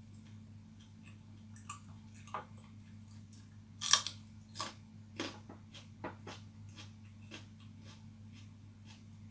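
A person eating pigeon: scattered sharp crunches and clicks of chewing and biting, the loudest about four seconds in, over a steady low hum.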